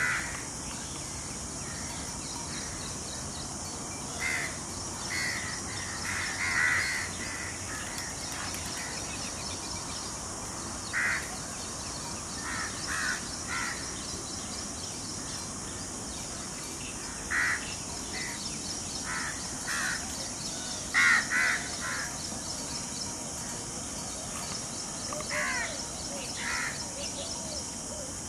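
Crows cawing on and off, in single calls and short runs of two or three, over a steady high-pitched hiss.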